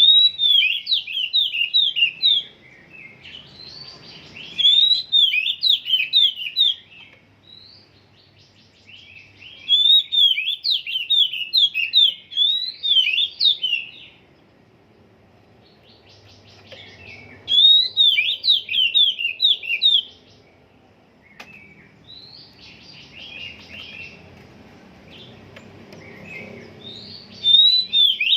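Oriental magpie-robin (kacer) singing in loud phrases of quick, rising whistled notes, each phrase two to four seconds long and repeated about every five seconds, with softer twittering in the gaps. The bird's song is still in training.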